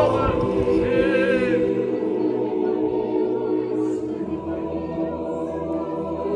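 Voices singing an Orthodox liturgical chant together in long, held notes.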